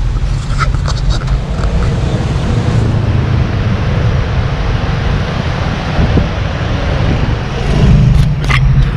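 A motor vehicle running, a steady low engine hum under a loud rushing noise, with a few sharp clicks near the end.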